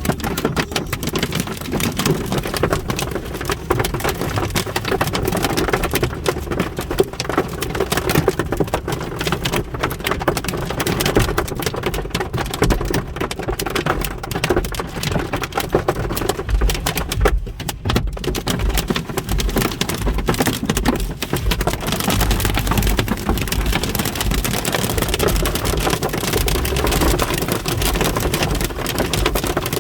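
Hail and heavy rain pelting down, a dense rapid patter of hard hits, with low rumbling in the last third.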